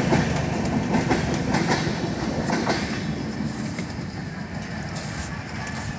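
Train passing on the track, its wheels clattering over the rails, then fading over the last three seconds.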